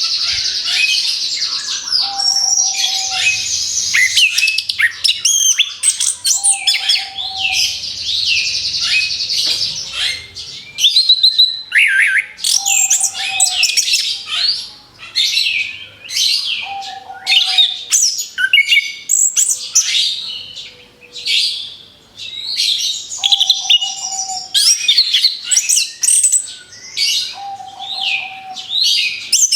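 Orange-headed thrush (anis kembang) singing a fast, continuous run of varied whistled and chattering phrases, the rapid-fire 'tembakan' song used as a training lure for songbirds. A short lower whistle recurs about every three to four seconds under the song.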